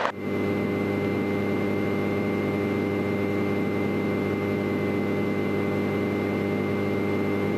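Cessna Skyhawk's piston engine and propeller running at low taxi power, a steady drone with a thin high whine over it.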